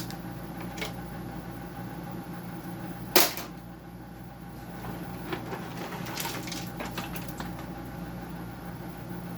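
Plastic dehumidifier case being handled and turned over, giving one loud knock about three seconds in and a run of lighter clicks and taps later, over a steady low hum.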